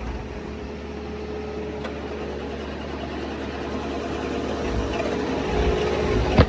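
A motor vehicle's engine running steadily, getting louder over the last couple of seconds, with a sharp knock right at the end.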